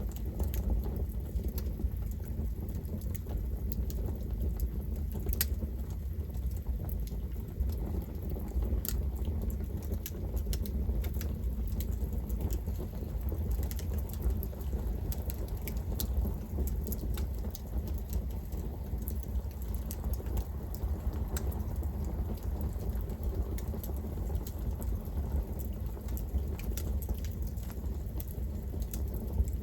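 Campfire burning: a steady low rumble of flames with frequent, irregular sharp crackles and pops from the burning wood.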